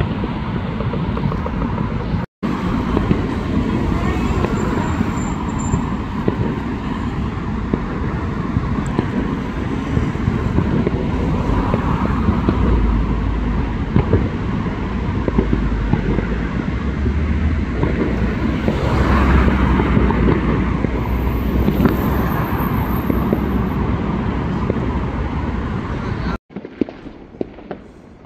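Fireworks going off in a dense, continuous barrage: many bangs and crackles blurring together over a low rumble.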